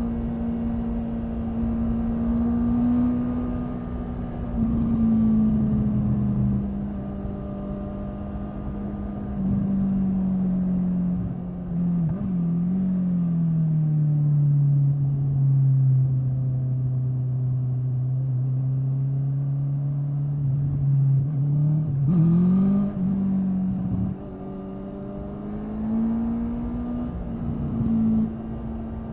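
Honda 650 inline-four motorcycle engine running under way at a steady pitch, which drops to lower revs and holds there for several seconds around the middle, then rises sharply about twenty-two seconds in and settles back to the earlier pitch.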